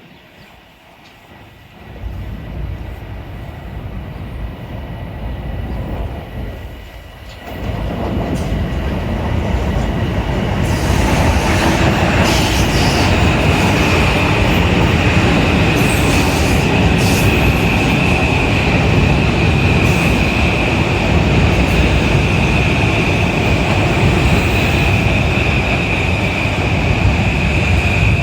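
A Metro-North train passing through the station, building to a loud, steady rumble from about eight seconds in. A thin, steady high wheel squeal comes in a few seconds later, with a few sharp clicks over the rail joints. Before the train grows loud, gusty wind buffets the microphone with a low rumble.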